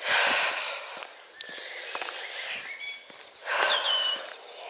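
Small birds chirping against outdoor background noise, with a swell of rustling hiss at the start and another about three-quarters through.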